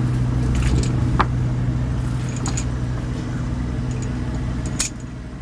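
Fishing boat's engine running steadily with a low hum, with a few light clicks and knocks over it. There is a sharper click near the end, and after it the sound is quieter.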